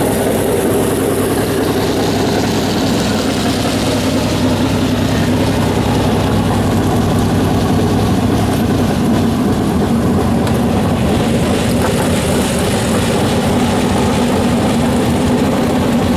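Dirt-track race car engines running loud and steady.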